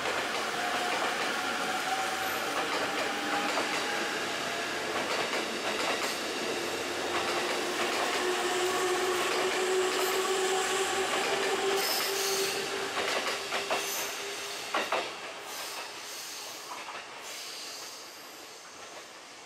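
E257 series electric limited express train pulling out, its running noise carrying a steady high tone. About two-thirds of the way through, the wheels clack over rail joints, and then the sound fades as the train moves away.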